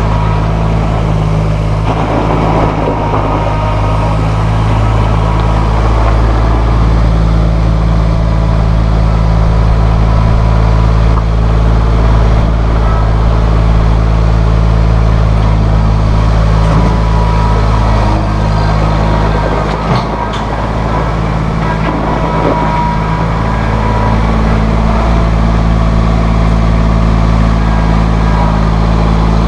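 Massey Ferguson 1635 compact tractor's diesel engine running steadily at constant speed, with a brief slight dip about two-thirds of the way through.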